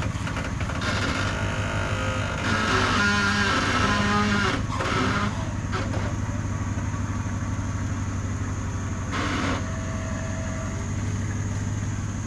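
Four-wheel-drive vehicle's engine running steadily at low revs, with a louder, higher-pitched stretch between about two and five seconds in.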